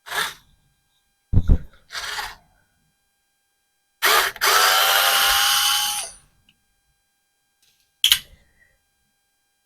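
Cordless drill-driver with an extension backing out a screw, its motor spinning up and running for about two seconds before stopping. Short tool clatters come before it and a sharp click comes after.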